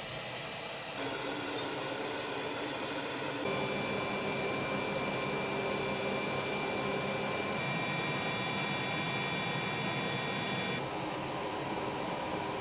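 Helicopter turbine engines running with a steady high whine over a rushing hiss; the pitch and mix change abruptly a few times.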